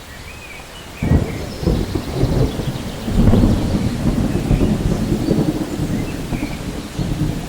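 Steady rain with rolling thunder: a low rumble breaks in suddenly about a second in, swells again around three seconds and keeps rolling.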